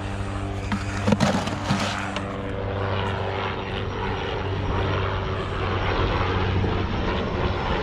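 Helicopter flying over: a steady drone of engine and rotor, with a few sharp knocks about a second in.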